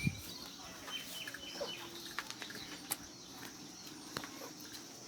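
Faint farmyard ambience with scattered short bird chirps and a few light clicks.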